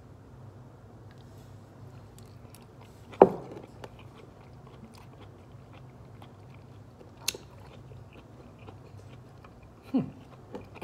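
A person biting and chewing crunchy fresh green beans, with faint crackling ticks throughout and a few sharp clicks and knocks, the loudest about three seconds in.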